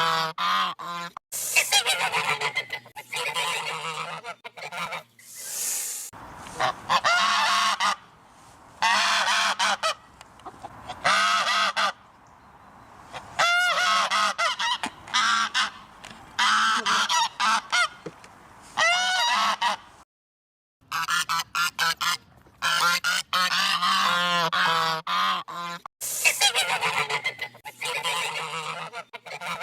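Geese honking in repeated loud bouts, several birds calling over one another, with short pauses between bouts and a sudden one-second silence about two-thirds of the way through.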